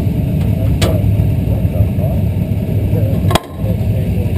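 Asphalt modified race car's engine running steadily, heard from inside the car as a loud, dense rumble. Two sharp clicks cut through it, about one second in and at about three and a half seconds, the second with a brief drop in the sound.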